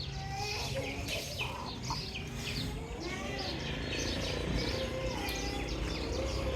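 Domestic chicks peeping continuously: many overlapping short, high, falling chirps, with a few lower gliding calls among them.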